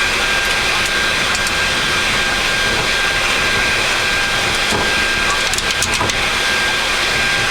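Steady flight-deck noise of a Boeing 737 MAX taxiing: an even rush with a thin, constant high whine running through it, and a few light clicks about five to six seconds in.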